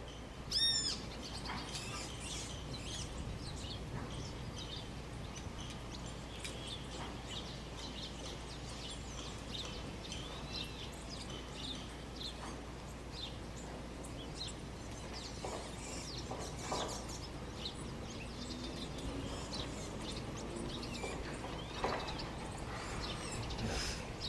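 Several birds chirping and calling, with many short high chirps throughout and one louder call about half a second in.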